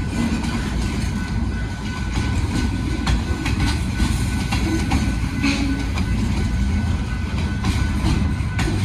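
Train running on the rails: a steady low rumble with wheels clicking irregularly over rail joints.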